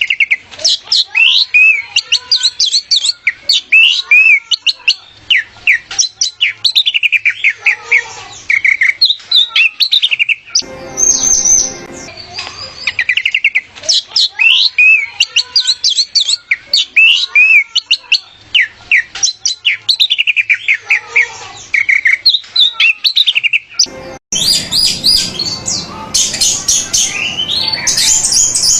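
Orange-headed thrush (anis merah) singing a fast, varied song of quick down-slurred whistles and chirps in dense runs. About 24 seconds in, it switches to a noisier recording with a rush of rapid trills.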